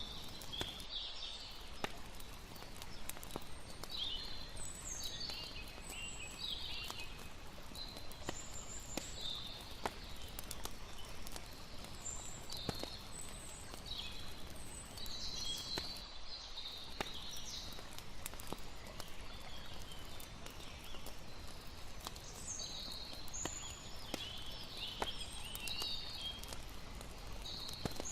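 Layered campfire-and-river night ambience: a steady rushing hiss of water under sharp, scattered crackles from a wood fire. Short high chirping calls come in irregular clusters throughout.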